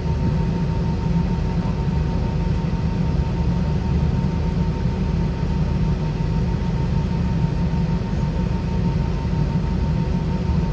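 Steady in-flight cabin noise of an Airbus A320-232 with IAE V2533-A5 engines: a constant low rumble of engines and airflow with faint steady tones above it, heard from inside the cabin.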